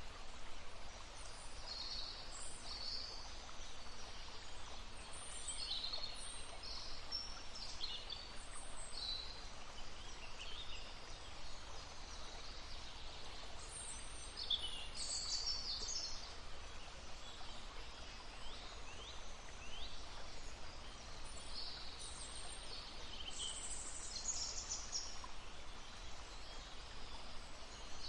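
Several small songbirds chirping and trilling over the steady babble of a stream.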